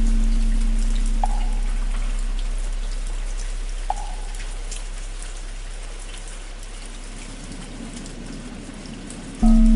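Steady rain pattering, over the low hum of a deep bell that fades slowly after its strike; the bell is struck again near the end. Two single light wooden-fish knocks fall about a second and four seconds in.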